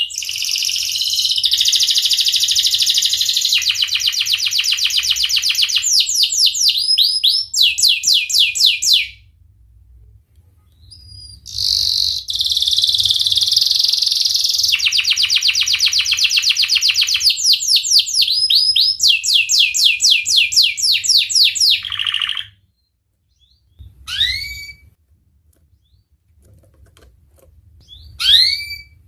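Domestic canary singing long rolling song: two long phrases of fast repeated trills and rapid rising notes with a short break between them, then a few short upswept chirps near the end.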